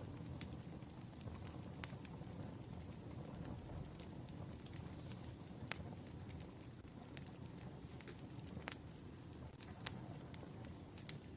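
Wood fire burning: a faint, steady low rumble with sharp, irregular crackles and pops from the burning logs.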